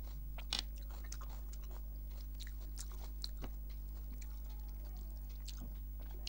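Close-miked chewing with sharp wet mouth clicks, alongside fingers mixing rice on a plastic plate. A steady low hum runs underneath.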